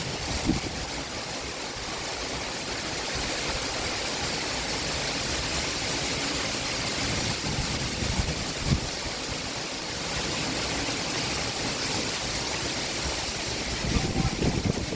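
Summer downpour: rain falling steadily in an even hiss, with one short low knock about nine seconds in.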